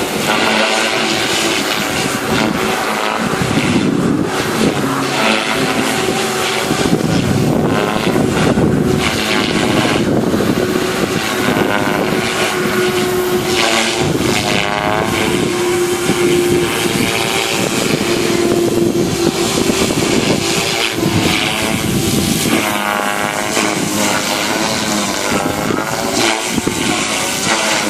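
Devil 380 radio-controlled helicopter flying: a steady rotor whine over loud rushing noise, its pitch wavering up and down throughout.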